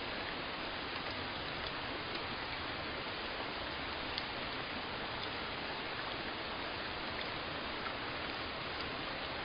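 Steady rain falling, a dense even patter with occasional single drops ticking out above it.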